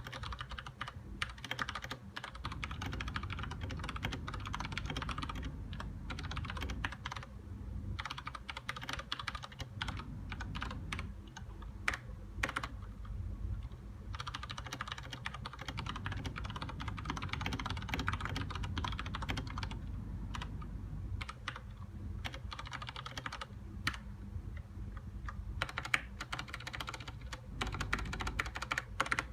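Aukey KM-G6 mechanical keyboard being typed on in fast runs of clacking keystrokes, with short pauses between runs, over a steady low hum.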